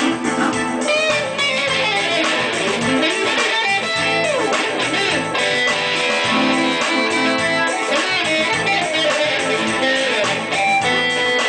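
Music: electric guitar playing a busy lead line of quick notes with sliding, bent pitches over sustained lower notes.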